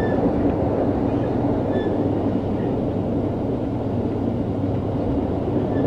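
Steady low rumble of a moving train heard from inside the carriage: the running noise of the wheels on the rails, even and unbroken.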